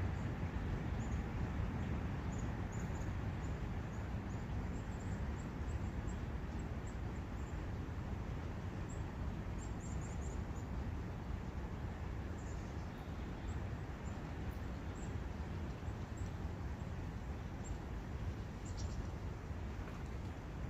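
Steady rushing of a forest brook over a low rumble, with faint, short, high bird chirps scattered throughout.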